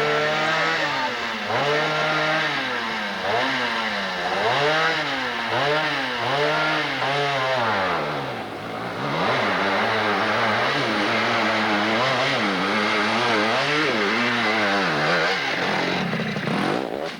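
Hill-climb motorcycle engine revving up and down over and over, its pitch rising and falling about once a second as the throttle works, with a brief dip about halfway through and an abrupt change near the end.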